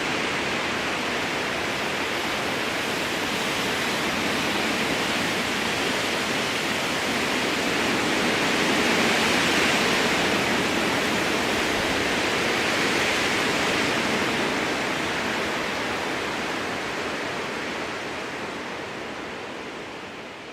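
Strong wind rushing through conifer trees, a steady noise that swells a little around the middle and fades out near the end.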